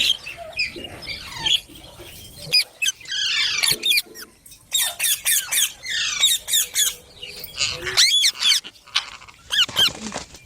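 Baby green parrot chirping and squeaking: a rapid string of short, high calls that slide up and down in pitch, with a louder arching call about eight seconds in.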